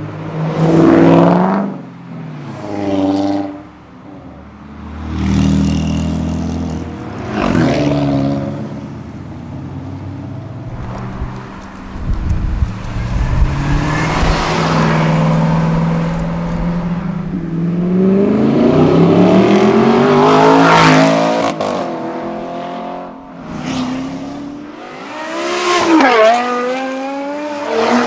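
Several high-performance cars accelerating past one after another, engines revving up and easing off. In the middle, one long pull climbs steadily in pitch through the revs.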